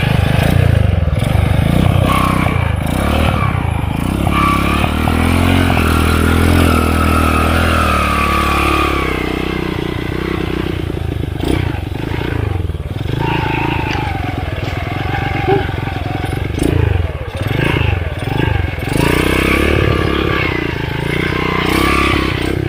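Underbone motorcycle engine running as it is ridden over a rough river trail, its note rising and falling with the throttle.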